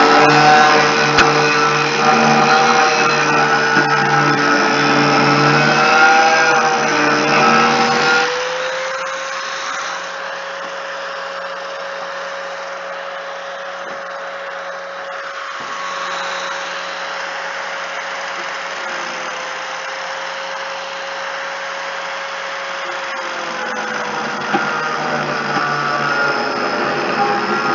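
Electric angle grinder with a sanding disc running steadily while stripping the seal off a car window. It runs under load with a rougher sound for about the first eight seconds, then spins lighter with a slightly higher whine, and bears down again near the end.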